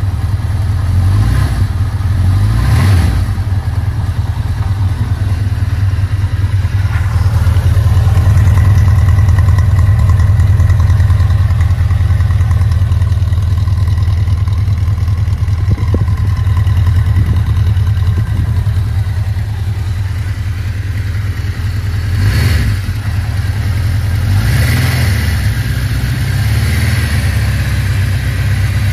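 1983 Suzuki GS1100G's air-cooled inline-four engine idling steadily through twin exhausts after a cold start, with a few brief swells in level.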